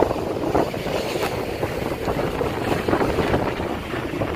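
Wind buffeting the microphone on the bow of a motor yacht under way: a steady, gusting rush of noise.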